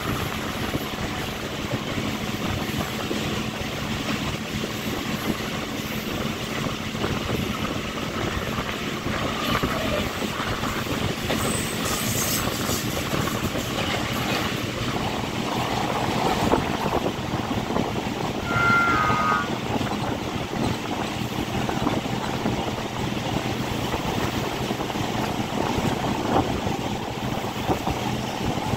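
Running noise of a suburban electric multiple-unit (EMU) train on the move: a steady rush of wheel-on-rail and wind noise under a low, even hum. A brief high-pitched tone comes about two-thirds of the way through.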